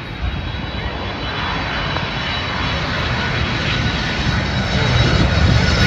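Boeing 767-300 freighter jet on final approach passing low overhead. A deep rumble with a thin, steady engine whine above it, growing louder through the clip.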